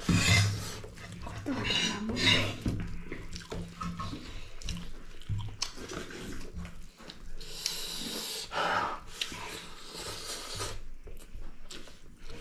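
People eating noisily: chewing, smacking and slurping mouth sounds with occasional small clicks.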